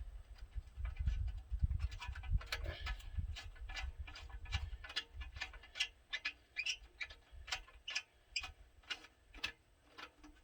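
Light sharp clicks and taps of hand tools and fasteners being worked on the truck, irregular at first over low rumbling handling noise, then settling into an even run of about two clicks a second.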